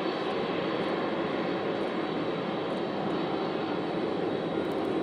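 Jet noise from a Boeing 747-400D's four turbofan engines on takeoff: a steady rumble and rush with a faint high whine held over it.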